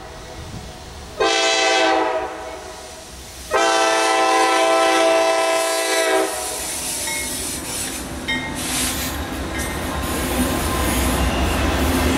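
Diesel locomotive air horn sounding a short blast and then a long one, from a Norfolk Southern GE Dash 9-40CW leading a freight train. Then the locomotives and intermodal cars run past with a steady rumble and brief thin wheel squeals.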